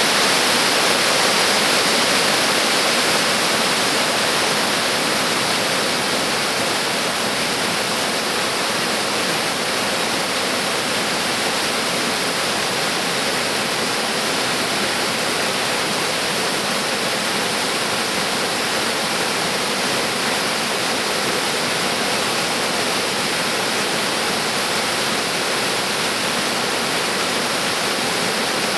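Water of the Yudaki waterfall rushing down in a steady, dense wash of noise, a little louder in the first few seconds.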